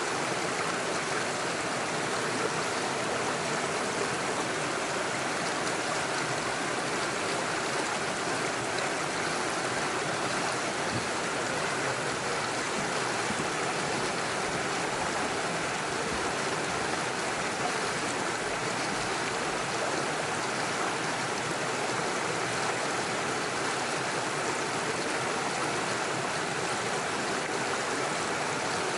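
Small rocky stream flowing over stones and little waterfalls: a steady, even rush of water.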